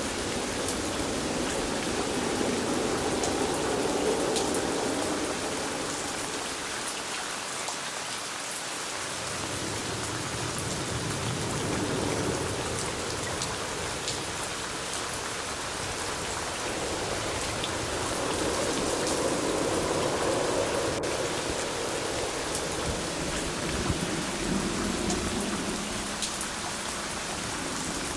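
Steady rain falling on a surface: an even hiss with scattered single drops ticking, over a low rumble that swells and fades several times.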